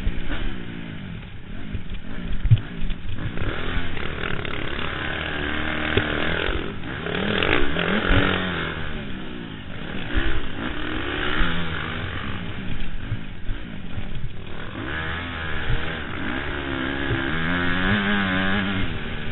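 Honda CRF motocross bike's four-stroke single engine revving hard and easing off again and again as it is ridden round the track, with its pitch repeatedly rising and falling.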